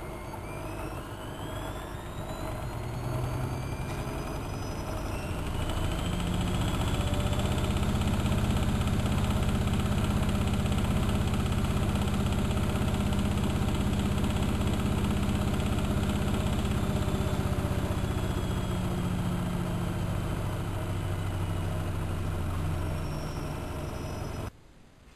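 Bauknecht WA1400 Dolphin washing machine spinning: a whine rises in pitch over the first few seconds as the drum speeds up, then holds at a steady loud hum. It cuts off abruptly near the end.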